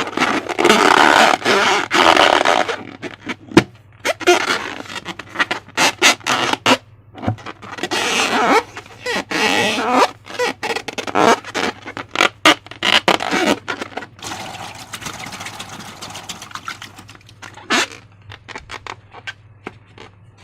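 Slime being worked by hand: irregular bursts of sticky squishing and scraping with many small crackles and clicks. It is busiest in the first few seconds and again midway, then thins to scattered light clicks near the end.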